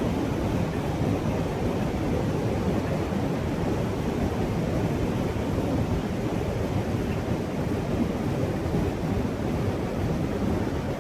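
Steady rush of river water, an even roar with no separate events.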